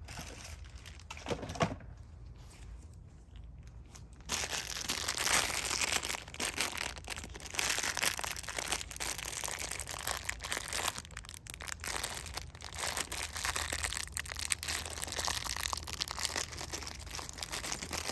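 Close, continuous crinkling and crackling of plastic being handled, starting about four seconds in, after a single short knock.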